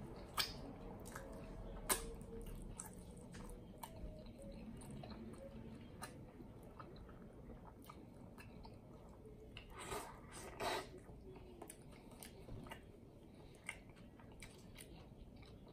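A person chewing a bacon cheeseburger: faint, wet mouth sounds, with sharper smacks about half a second and two seconds in and a louder cluster around ten to eleven seconds in.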